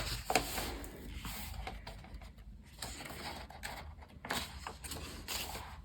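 Paper rustling and light ticks as a colouring book's pages are handled and turned, in uneven bursts.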